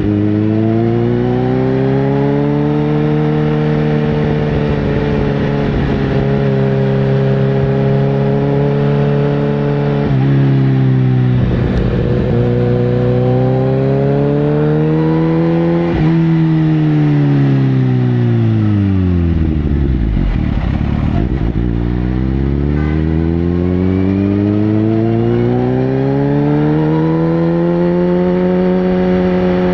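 Sportbike engine revving, its pitch climbing and holding, dropping sharply about ten seconds in, then sinking low around twenty seconds in before climbing again.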